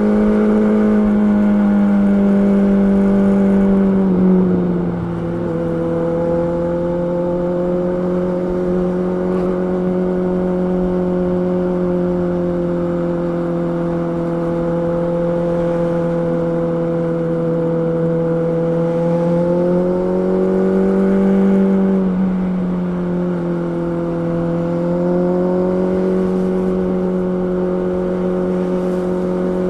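Honda CB650R's inline-four engine running steadily at fairly high revs, as when being ridden. The engine note drops about four seconds in, then rises and dips again a little past twenty seconds.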